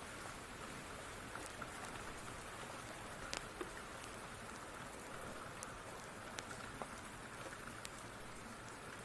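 Steady rain with a wood fire crackling, scattered sharp pops every second or so.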